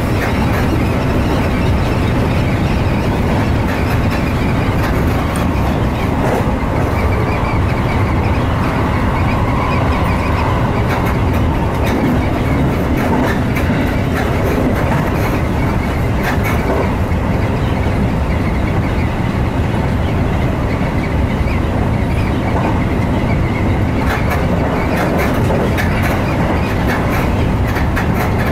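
Seibu Shinjuku Line electric commuter train running at speed, heard from behind the driver's cab: a steady rumble of wheels on rail. Near the end comes a quick run of clicks as the wheels cross the points by the depot.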